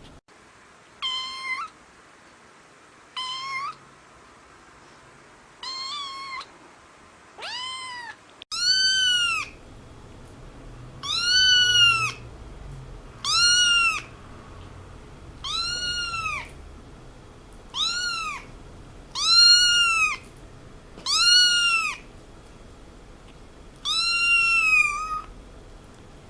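Domestic cat meowing about a dozen times, each meow rising and then falling in pitch, spaced one to three seconds apart. The first four are shorter and fainter; from about eight seconds in the meows are louder and longer.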